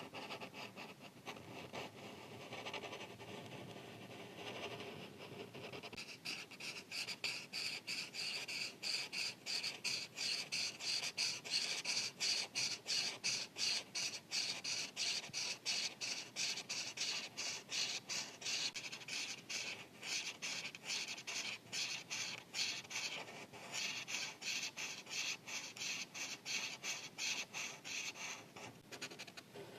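Marker tip rubbing on paper as a drawing is colored in: a few slower strokes at first, then from about six seconds in, quick, even back-and-forth strokes, a few per second, that stop just before the end.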